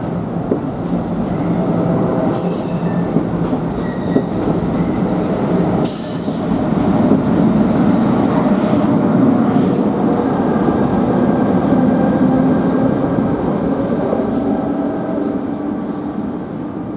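NJ Transit train rolling past at close range, a steady rumble of wheels on rail with brief high wheel squeals about two and a half and six seconds in.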